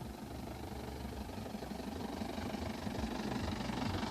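Jeep engine running on a bumpy road, with road noise that grows steadily louder.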